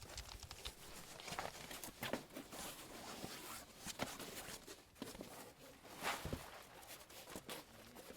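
Irregular clicks, crackles and rustles with no steady tone, some sharper than others.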